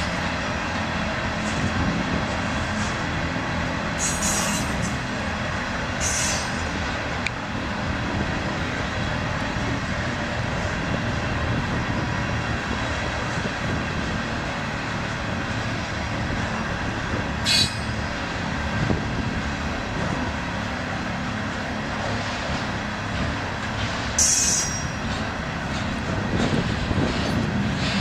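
Loaded freight cars of a CSX garbage train rolling past: a steady rumble of steel wheels on rail, with a few brief high wheel squeals.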